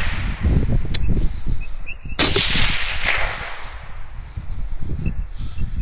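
A gunshot about two seconds in, its report ringing out and fading over about a second, with a sharp click about a second in and a low rumble underneath throughout.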